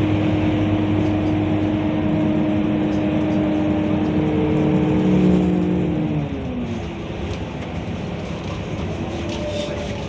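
Scania K230UB bus engine pulling steadily. About six seconds in, its pitch slides down and it gets quieter, as when the driver eases off or the gearbox changes up. Near the end the note begins to climb again.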